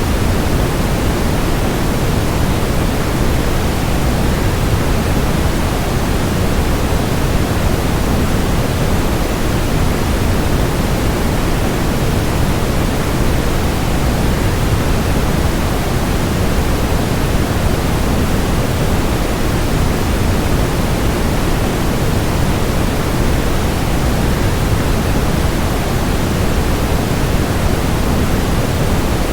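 Steady waterfall white noise: an even, unbroken rush of falling water, heaviest in the low end, with no change in level.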